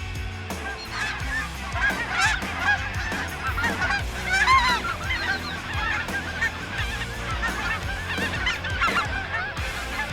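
A flock of geese calling, many honks overlapping, busiest and loudest about four and a half seconds in.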